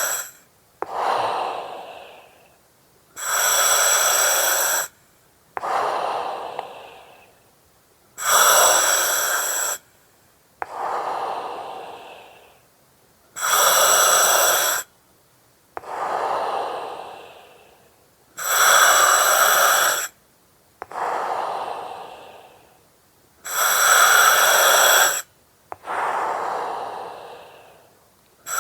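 Slow, even breathing through an oxygen mask, about one breath every five seconds. Each cycle is a steady, hissing breath that starts and stops abruptly, followed by a softer breath that fades away.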